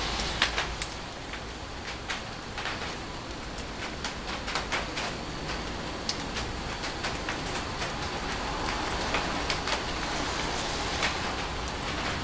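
Rain falling during a thunderstorm, a steady hiss dotted with many irregular sharp ticks of drops striking a hard surface close by.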